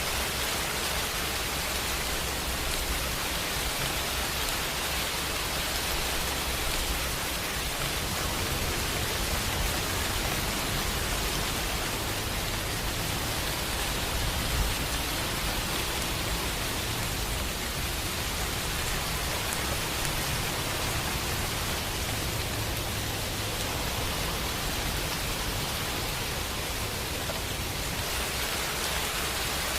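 Steady rain, an even hiss of drops falling on surfaces, with a low rumble underneath that grows stronger about a quarter of the way in.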